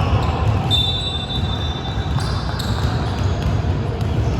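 Basketball bouncing on an indoor court during play. About a second in, a high steady tone sounds for about two seconds over the dense low rumble of the gym.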